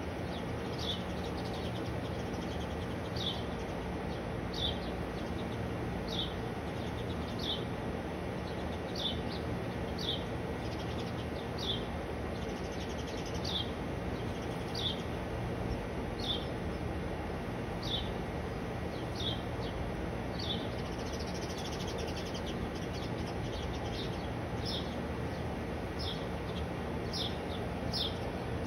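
A bird repeating a short, high, falling chirp about once a second, a little faster near the end, over a steady outdoor background hiss.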